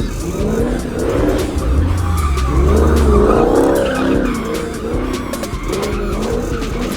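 Cars sliding: tires squealing and engines revving, the pitch wavering up and down.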